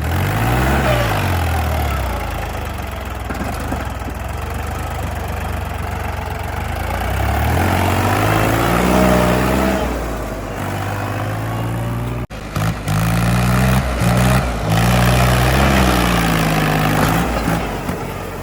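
Heavy diesel engines running and revving up and down several times under load, with a brief break about two-thirds of the way through.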